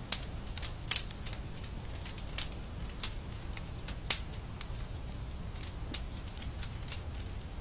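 Fire in a fireplace crackling: irregular sharp pops and snaps, a few louder ones scattered through, over a steady low rumble.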